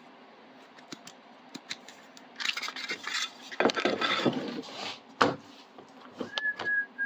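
Metal hand tools and hardware clattering and scraping as they are handled. It is quiet at first, then there is a dense stretch of rattling from about two and a half seconds in and a sharp click around five seconds. A few more clicks and a short high steady tone come near the end.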